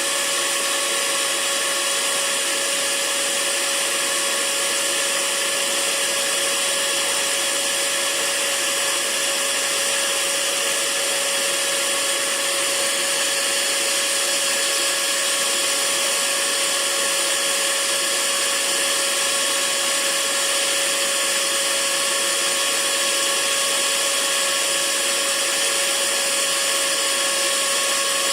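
Hair dryer running steadily at one speed: an even rush of air with a constant motor whine.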